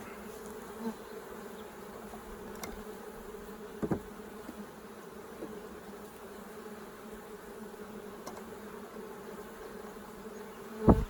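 Steady hum of many honey bees flying around an opened hive. A short knock comes about four seconds in, and a louder thump near the end.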